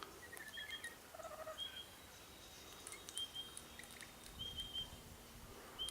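Birds at a feeding spot calling faintly, short high chirps repeated in twos and threes, with a few lower chirps in the first couple of seconds. A faint low rumble comes in near the end.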